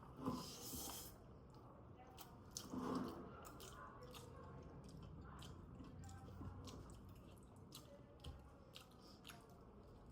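Quiet close-up chewing and crunching of food, with many small wet clicks and smacks. It is louder briefly near the start and again about three seconds in.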